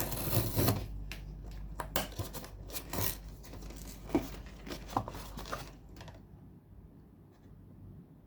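GoPro Hero 12 box packaging being handled and opened by hand: rustling, scraping and small clicks, dying away about six seconds in.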